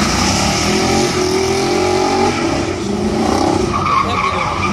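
Drift cars' engines revving hard as they slide around each other, the pitch rising and falling with the throttle.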